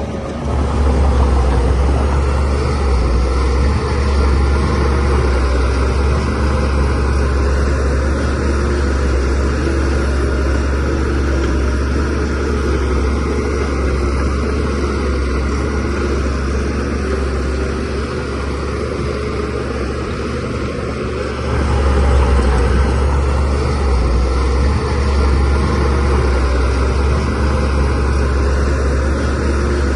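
DH17C3PRO bulldozer's diesel engine running steadily at work. It grows louder about a second in, eases slightly, then picks up again about two-thirds of the way through.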